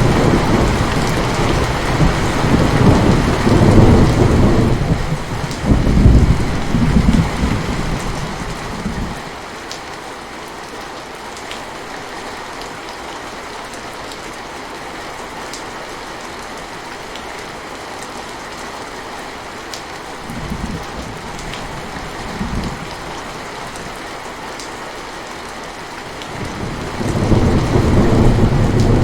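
Steady rainfall with scattered drops, overlaid by rolls of thunder: a long, heavy rumble through the first third, two short rumbles a little past the middle, and another rumble building near the end.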